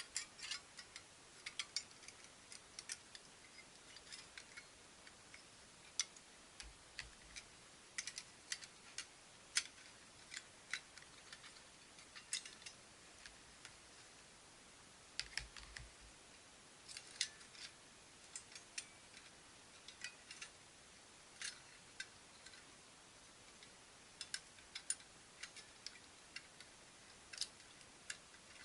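Sparse, irregular light clicks and ticks, a few a second, some in quick clusters, over near silence.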